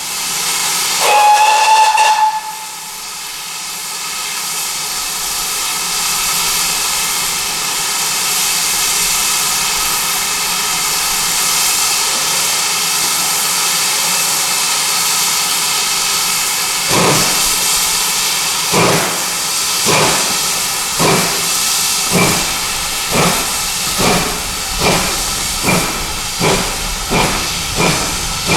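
GWR Manor class 4-6-0 steam locomotive No. 7802 Bradley Manor giving a short whistle, then a long steady hiss of steam before starting away. From just past halfway its exhaust beats begin, slowly at first and quickening as it gets its train moving.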